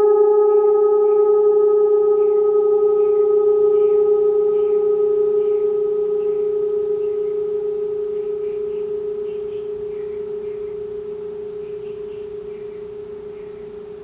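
Singing bowl ringing out after being played: one steady pitched tone with a few higher overtones, slowly fading away.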